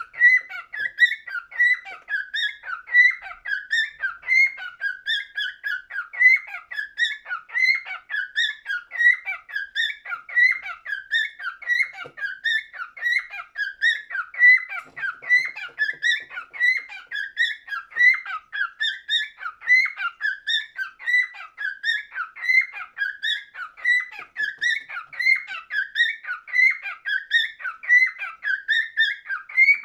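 Cockatiel singing: a steady, unbroken run of short whistled notes, about two a second.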